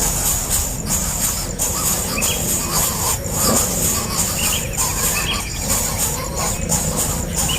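Small birds giving short chirps about once a second, with one longer trilled call about six seconds in, over a steady high-pitched hiss.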